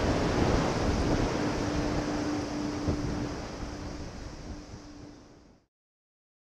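Strong gusty wind rumbling on the microphone, mixed with the distant noise of a Boeing 767-300's jet engines and a steady low hum that comes and goes. It fades and cuts off to silence about five and a half seconds in.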